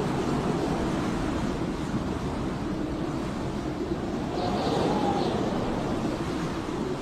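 Blizzard wind howling: a steady rush with a whistling tone that swells and falls away about four seconds in.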